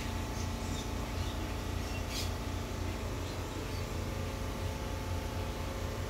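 A few short, high bird chirps, the clearest about two seconds in, over a steady low hum.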